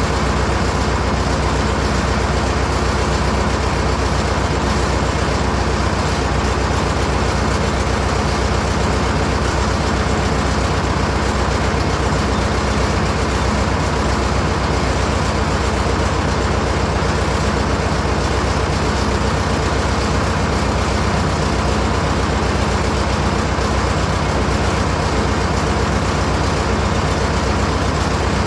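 Fordson Major tractor engine running steadily at a constant speed, driving the PTO hydraulic pump of the Kubota 130 backhoe.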